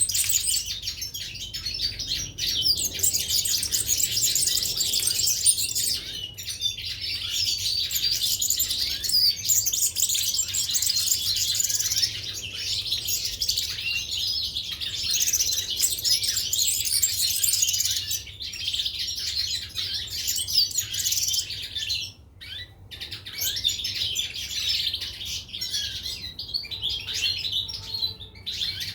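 Caged European goldfinches and canaries chirping and twittering, many high calls overlapping without a break except a short lull about 22 seconds in.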